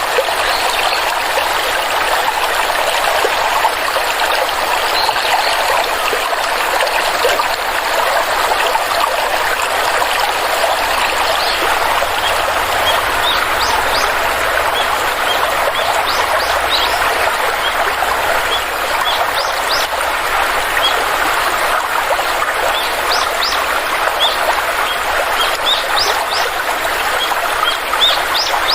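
Steady rush of a flowing stream. Small birds chirp over it from about halfway through, more often near the end.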